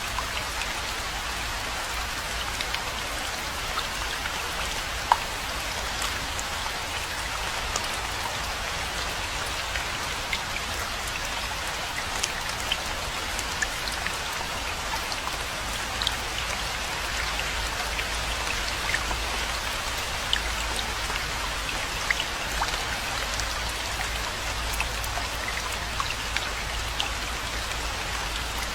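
Steady rainfall: an even hiss of rain with many scattered single drops ticking sharply close by, one louder drop about five seconds in, over a faint low rumble.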